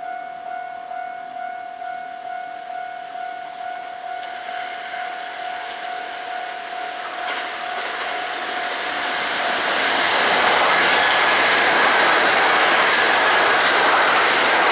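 A red-and-white Kintetsu electric commuter train approaches and passes close by, its wheels and running gear rising to a loud rush of rail noise from about ten seconds in. Until then a steady, slightly pulsing warning tone rings, fading out as the train draws near.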